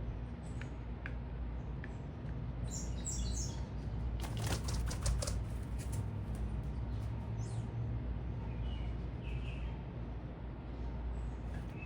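Small birds at a feeder: a brief flurry of wingbeats about four seconds in, with short high chirps before and after it. A steady low rumble runs underneath.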